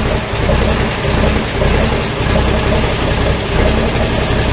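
A large tractor engine running steadily, with a low pulsing beat, just after being started.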